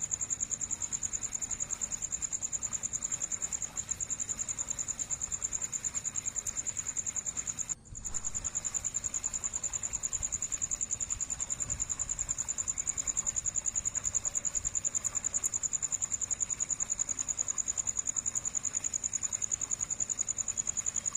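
Steady high-pitched insect trill, pulsing rapidly, with a brief break about eight seconds in.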